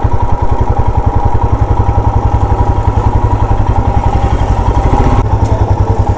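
Single-cylinder motorcycle engine idling steadily, its even low pulse about ten beats a second, with a steady higher hum alongside.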